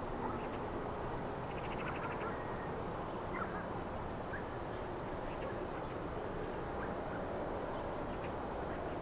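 Steady outdoor background rumble and hiss with faint, scattered short bird chirps, and a quick rapid trill about a second and a half in.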